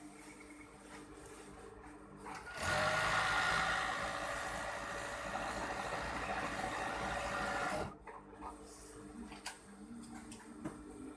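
Overdeck (coverstitch) sewing machine running a seam at a steady speed for about five seconds, starting a couple of seconds in and stopping suddenly. Small clicks and handling noises come before and after the run.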